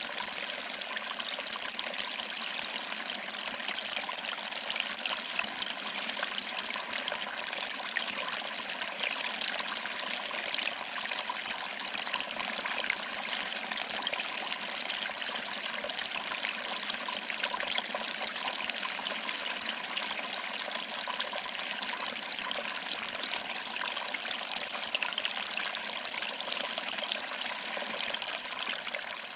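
Small waterfall: water trickling over rocks and splashing into a pool, a steady, even rush of water.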